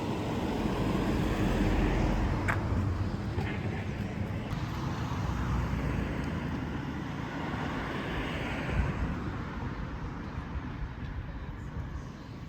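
Road traffic noise: vehicles passing, with a steady rushing hum and a car swelling by near the end.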